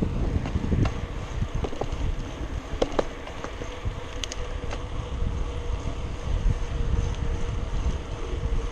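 Wind buffeting the microphone of a camera riding along on a moving bicycle: a fluttering low rumble under a faint steady hum, with a few light clicks.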